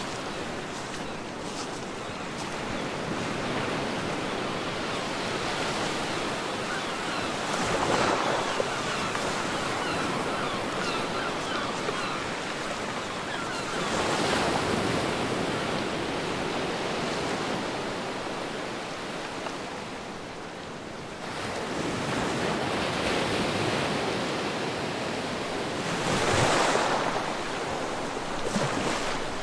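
Ocean waves breaking and washing onto a beach over a steady surf hiss. The surf swells with a wave about eight seconds in, another around fourteen seconds, and a louder one near the end.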